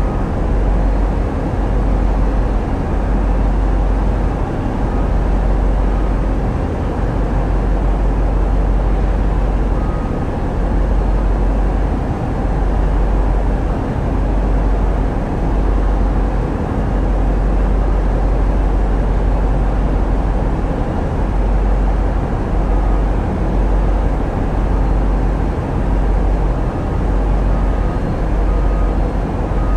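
Tugboat's diesel engines running steadily under way: a loud, continuous low drone with a broad rushing noise over it, the deepest rumble swelling and dipping every second or two.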